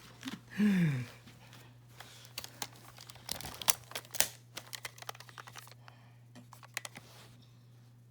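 Hands handling plastic packaging, likely a pack of AAA batteries: a string of small sharp clicks and crinkles, with a brief falling vocal sound under a second in.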